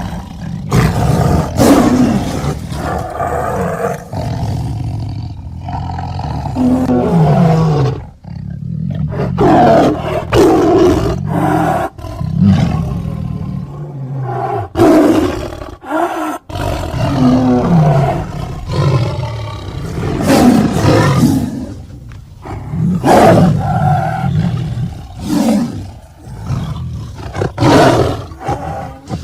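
Bengal tiger roaring again and again, a string of loud roars and rumbles edited back to back with abrupt cuts between the clips.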